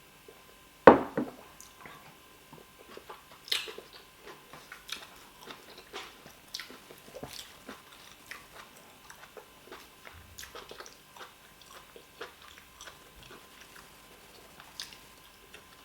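Close-miked eating sounds: someone chewing fufu and soup, with wet mouth smacks and clicks. One much louder sharp knock comes about a second in.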